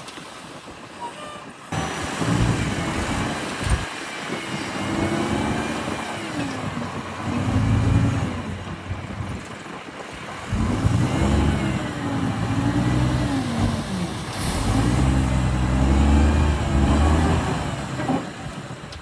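Heavy diesel engine of landfill equipment revving up and down in several swells under load, starting about two seconds in. A short hiss comes about two-thirds of the way through.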